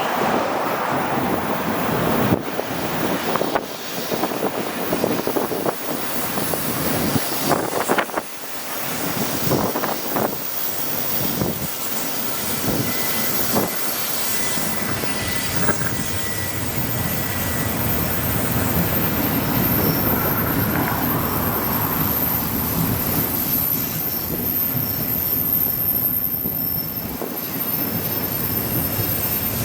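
Freight train of empty auto rack cars rolling past: a steady rumble of wheels on rail, with many clanks and rattles in the first half.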